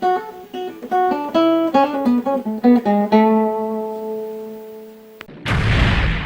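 A short plucked acoustic-guitar phrase of quick notes that ends on a chord left ringing and fading. About five seconds in, a loud burst of noise cuts in.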